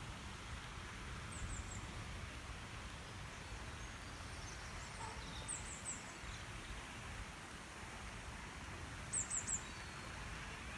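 A small bird giving a short, very high three-note chirp three times, about every four seconds, over steady low outdoor background noise.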